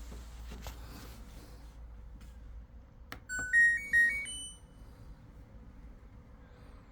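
A click, then an LG front-loading washing machine's control panel playing its short electronic tune, a quick run of beeping notes stepping mostly upward, the chime it gives when switched on.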